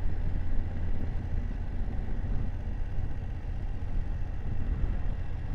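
BMW F750GS parallel-twin motorcycle engine running with a steady low rumble, mixed with road and wind noise on the rider's microphone.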